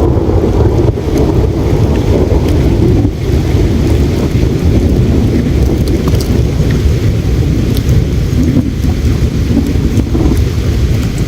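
Steady low rushing of flowing river water, with faint scattered crackles and pops from a campfire burning slowly.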